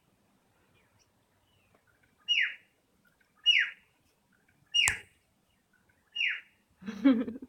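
A bird chirping: four short high chirps, each sliding down in pitch, about a second apart, with a sharp click at the third. A brief low voice-like sound follows near the end.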